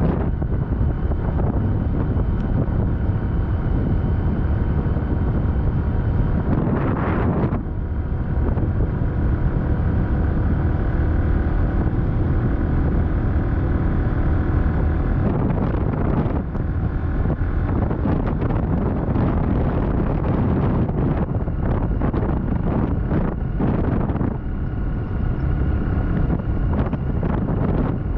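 Vehicle running on the road with wind buffeting the microphone: a steady low rumble, with louder swells a few times.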